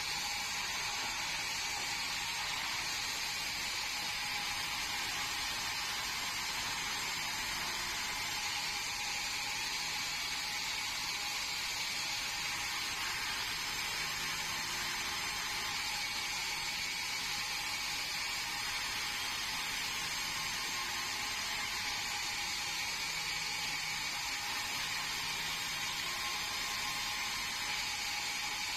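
Band sawmill running steadily: a constant, high-pitched whine and hiss that holds without change.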